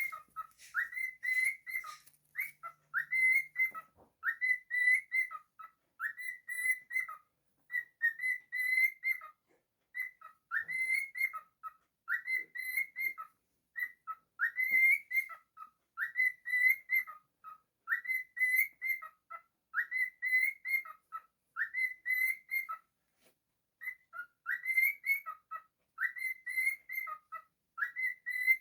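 Cockatiel singing a short whistled phrase over and over, about once a second, each phrase rising and then dropping back, with a few brief pauses.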